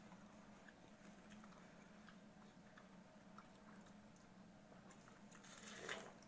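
Faint, crisp chewing and biting of java apples (makopa), with scattered small clicks of the fruit being bitten and chewed and one louder crunch near the end.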